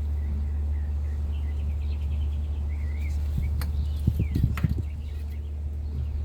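Birds chirping over a steady low rumble. A short cluster of knocks and clicks comes about four seconds in.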